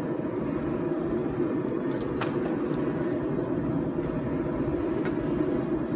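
A forge running with a steady, even rushing noise, and a few faint light clicks about two seconds in.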